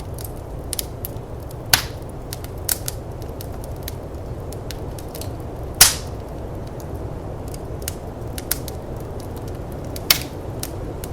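Wood fire in a firepit crackling, with scattered sharp pops, the loudest about six seconds in, over a steady low rush of snowstorm wind.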